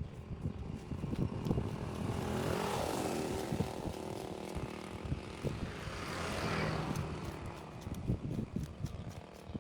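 Two vehicles passing by, one swelling and fading about three seconds in and another about six seconds in, over irregular low knocks and scrapes.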